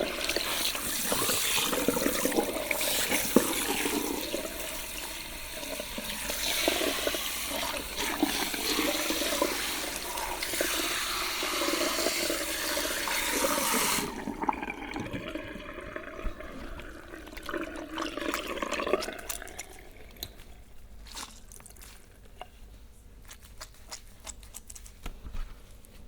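Salon shampoo-bowl shower spray running over hair. It shuts off suddenly about halfway through, leaving a few seconds of water trickling through the hair, then quieter wet handling with small clicks.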